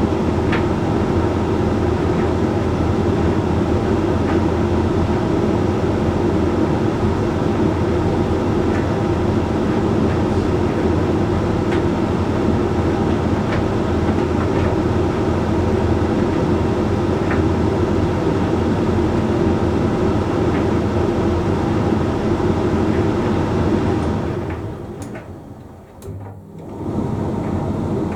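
Hoover Link X Care HLX C10DRGR condenser tumble dryer running its Whites cycle: a steady hum of the drum motor and fan, with faint irregular ticks. Near the end the running dies away, goes quiet for about two seconds, then starts up again.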